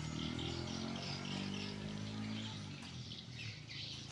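Birds chirping over a low, steady hum of even pitch that bends slightly and fades out about three and a half seconds in.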